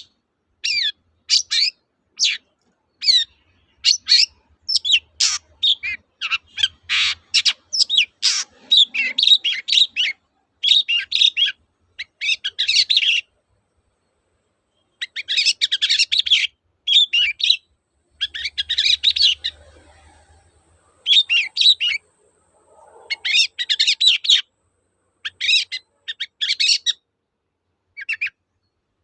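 Long-tailed shrike (cendet) singing: rapid runs of short, sharp chirping notes in dense bursts, pausing briefly about halfway through before starting again.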